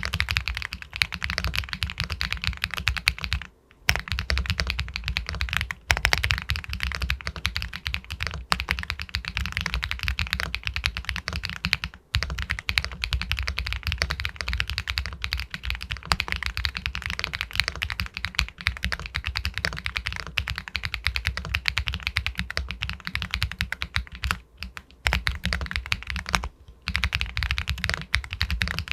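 Steady, fast typing on an Epomaker Galaxy 80 Pro full-aluminium mechanical keyboard with White Jade linear switches: a dense run of clacky keystrokes, with a few brief pauses, the longest about four seconds in.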